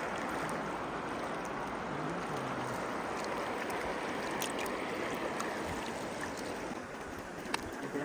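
Swat River water rushing steadily.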